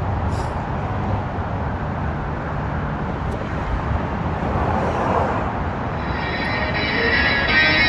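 Steady wind and road rumble on the microphone of a moving bike, with music fading in over it near the end.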